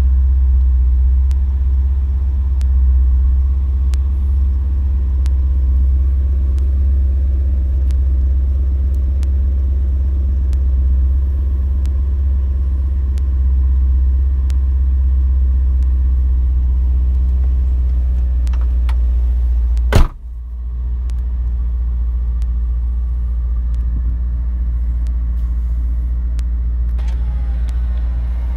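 BMW E39 M5's 4.9-litre S62 V8 idling, a steady low drone heard from inside the cabin. About two-thirds of the way through there is one sharp thump, the loudest sound, and a faint rising whine comes near the end.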